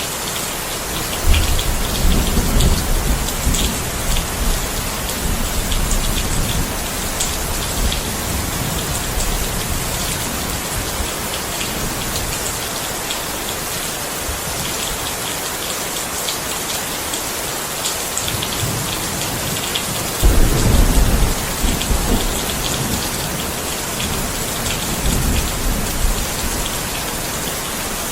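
Steady rain, with a constant hiss of drops on a surface. Low rumbles of thunder roll in about a second in and fade over several seconds. A stronger roll comes about two-thirds of the way through, and a weaker one near the end.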